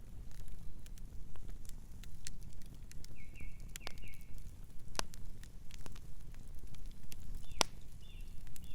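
Campfire burning with irregular crackles and sharp pops over a low steady rumble, two pops standing out louder. Twice, about three seconds in and again near the end, a brief high chirping call sounds over the fire.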